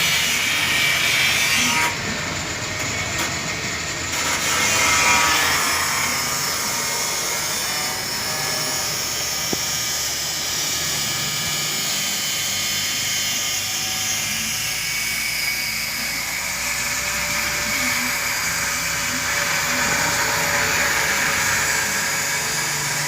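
Angle grinder running continuously under load, its whine shifting in pitch.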